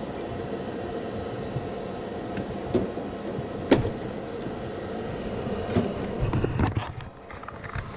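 Steady mechanical hum and rumble of a running furnace, with several sharp clicks and knocks of hands working on the unit, the loudest about halfway through; the running noise drops away near the end.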